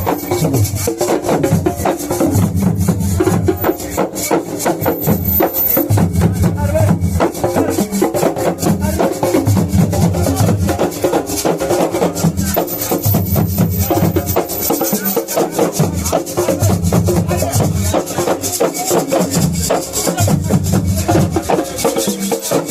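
Assiko music played live: drums and a shaker keeping a fast, dense rhythm over a pulsing low part.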